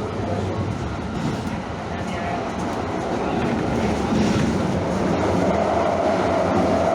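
Train running on the rails: a steady rumble, with a tone that grows louder over the last two seconds.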